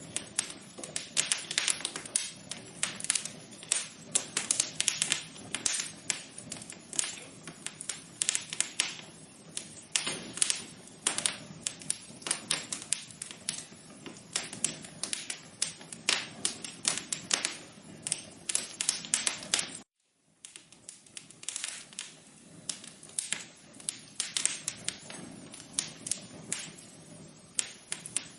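Fire in a fireplace crackling, with many irregular sharp pops and snaps over a low steady hiss. The sound cuts out for a moment about twenty seconds in, then the crackling resumes.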